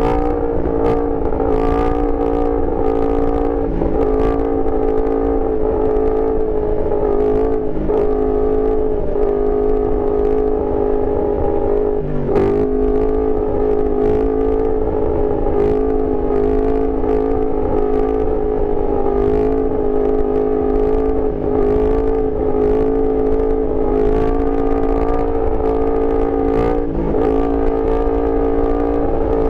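Yamaha R1's inline-four engine running under load at a steady, high engine speed on the move, with a brief drop and recovery in revs about twelve seconds in.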